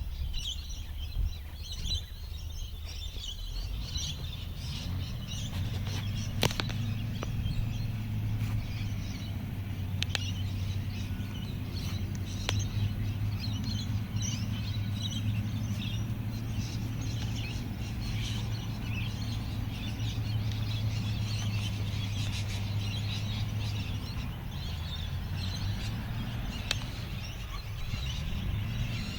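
Small birds chirping, with a steady low hum underneath through most of the middle and a couple of sharp clicks.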